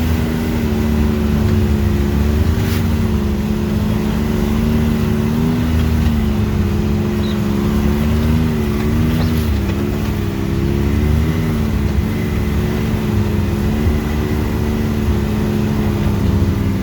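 Off-road vehicle engine running steadily at low trail speed, its pitch rising and falling slightly with small throttle changes.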